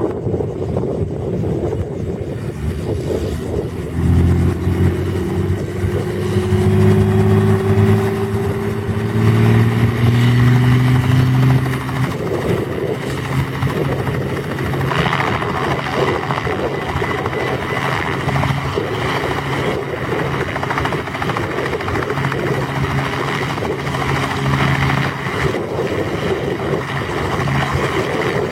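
An engine running with a steady hum that comes in about four seconds in, loudest for the next several seconds and shifting slightly in pitch, then steadier and quieter, over a constant rushing noise.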